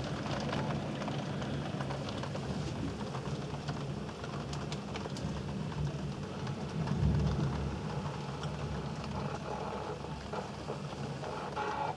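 Heavy rain falling, with many separate drop hits throughout, and a low rumble of thunder swelling about seven seconds in.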